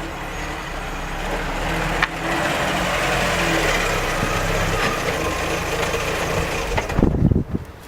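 Engine and road noise of a car while driving, steady throughout, with a single click about two seconds in. The noise drops away suddenly near the end.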